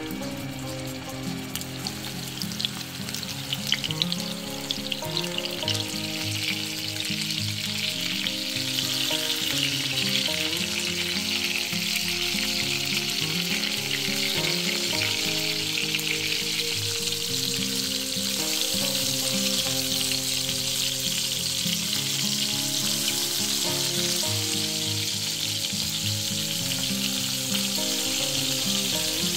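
Ground-meat patties frying in hot vegetable oil in a nonstick pan: a steady sizzle that grows louder over the first several seconds as the pan fills, with a few sharper pops about three to four seconds in. Soft background music plays underneath.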